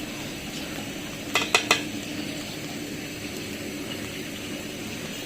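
A spoon clinks against a cooking pot three times in quick succession about a second and a half in, over a steady hiss of khichuri cooking in the pot.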